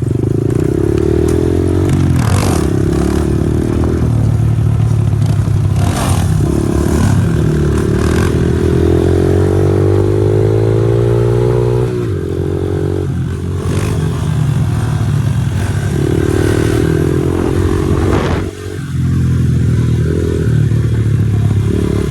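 Pit bike engine running hard, its pitch climbing and falling repeatedly with throttle and gear changes. There is a brief drop in revs about three-quarters of the way through.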